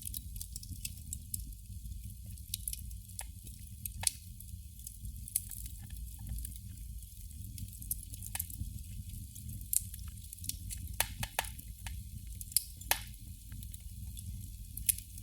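Candle flame crackling: irregular sharp pops and ticks, a few bunched close together, over a steady low hum.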